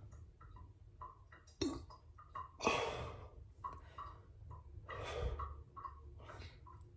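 A man's heavy, airy breaths, about four of them, the loudest about three seconds in: breathing hard against the burn of an extremely hot chili chip in his mouth and nose.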